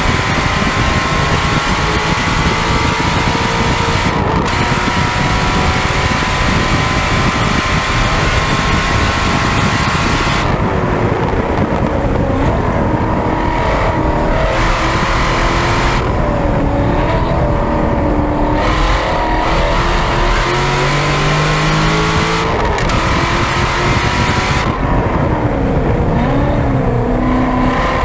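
2013 Chevrolet Corvette C6 Z06's 7.0-litre LS7 V8 through a Corsa X-pipe and catback exhaust, heard from the rear bumper at track speed. It pulls hard for about ten seconds with its pitch slowly rising and a brief break about four seconds in. It then alternates between spells off the throttle, where the exhaust quietens, and short bursts of full power.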